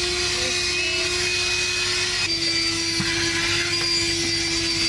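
Black+Decker Dustbuster cordless handheld vacuum running steadily while cleaning a car's interior, its motor whine dipping slightly in pitch a little over two seconds in.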